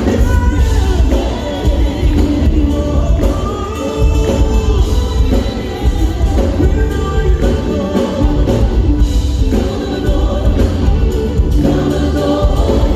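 Gospel-style singing with several voices over a backing band with a heavy bass.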